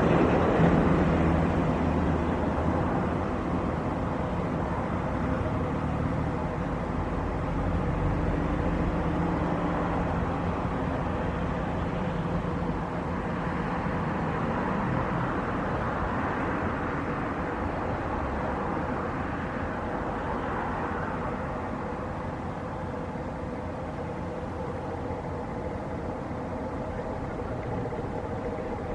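Jet airliner engines, loudest at first and fading steadily as the aircraft moves away, leaving a drawn-out rumble with a steady drone of several tones.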